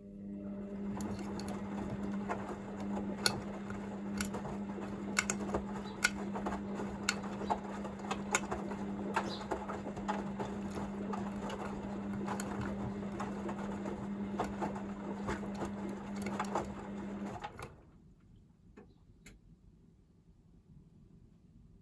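Hoover VisionDynamic washing machine tumbling its drum during the second rinse: a steady motor hum over a churning wash of water and laundry, with scattered sharp clicks. It stops abruptly about 17 seconds in.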